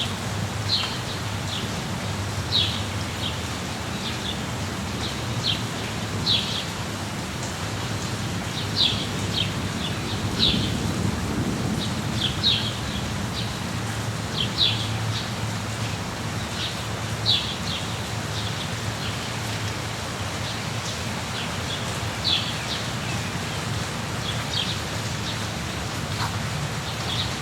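Rain forest ambience: steady rain with a low rumble underneath, and a bird giving short high chirps, often in pairs, every second or two.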